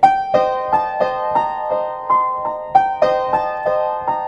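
A piano-sounding keyboard playing single notes in a repeating melodic figure, about three notes a second, each note ringing on into the next.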